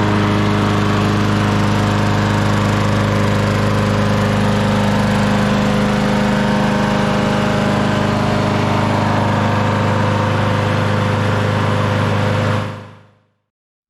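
John Deere JS36 walk-behind mower engine running steadily at speed, with no surging or stumbling, now that its cracked intake manifold has been replaced. The sound fades out near the end.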